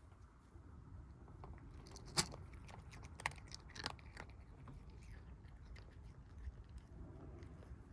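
Kittens eating, with irregular small crunching clicks as they chew their food.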